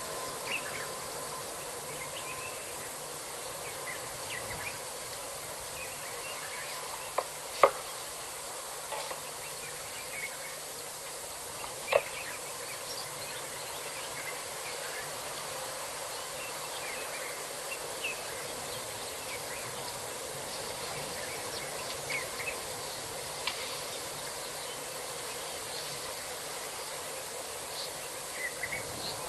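Elephant tusks knocking together: a few sharp ivory clacks, the loudest about seven and a half and twelve seconds in, over a steady background of insects and scattered bird chirps.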